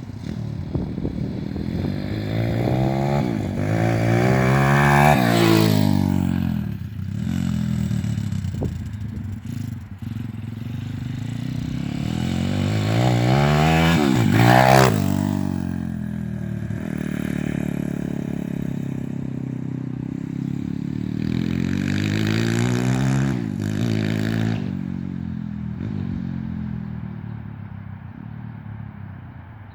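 Pit bike engine being ridden hard: it revs up three times with a rising pitch, each time peaking and then dropping away, and it fades off near the end.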